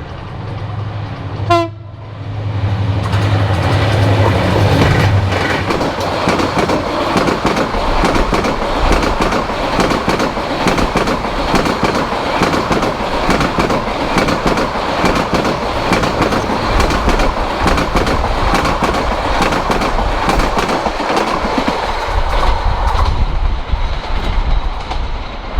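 Subarna Express intercity train passing at high speed on the next track. A loud rush of wheels with a rapid clickety-clack over the rail joints starts about two seconds in and fades near the end.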